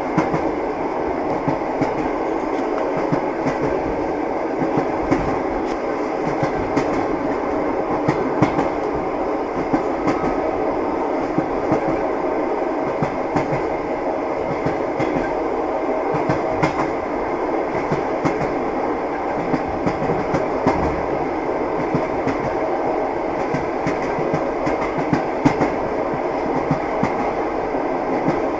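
A train running steadily, its wheels clacking over the rail joints over a continuous rumble, with frequent small clicks and knocks.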